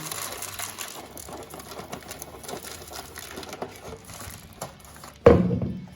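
Bird seed poured into a plastic milk bottle, a stream of small seeds rattling and pattering against the plastic. A single loud thump comes near the end.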